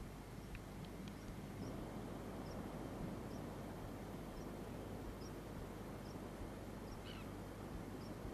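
Steady outdoor background noise with a faint, high-pitched bird call repeating about once a second.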